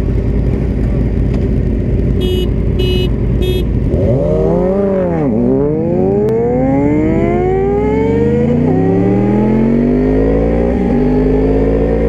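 Sport-bike engine accelerating hard, its pitch climbing steadily with brief drops at upshifts, over heavy wind rumble. Before that the engine holds steady, then dips and swings back up about four seconds in.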